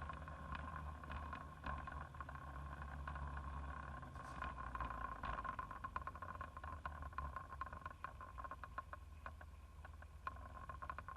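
Car driving, heard through a dashboard camera inside the cabin: a low steady engine and road rumble with many faint irregular ticks and rattles and a faint steady whine.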